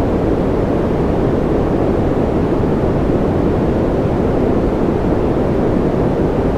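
Steady white-noise track for sleep: an even, unchanging rush with no tones or breaks. Its weight sits in the low and middle range, so it sounds like a dull rush rather than a bright hiss.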